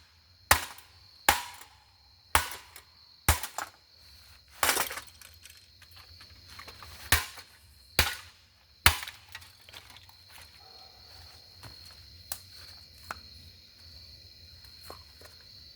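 A golf club striking a ceiling fan again and again: about nine sharp, hard hits at roughly one a second, which stop about nine seconds in, leaving only a few faint clicks.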